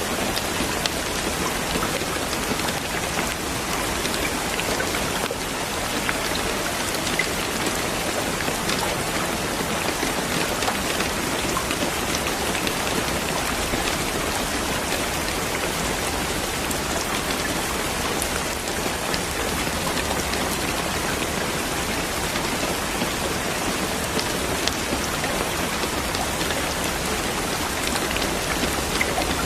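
Steady rain falling, an even dense hiss of drops with small scattered drop ticks and no change in intensity.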